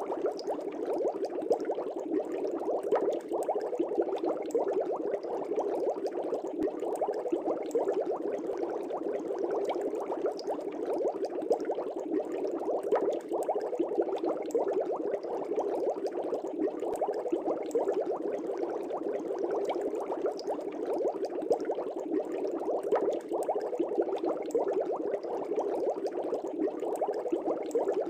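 Air bubbles streaming up through a fish tank's water: a dense, steady bubbling with no pauses or changes.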